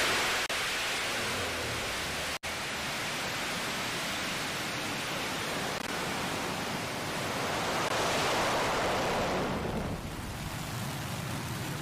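New Shepard's BE-3 liquid-hydrogen rocket engine at liftoff: a steady, rushing roar of noise. It cuts out for an instant twice in the first few seconds, swells about eight seconds in, then eases slightly.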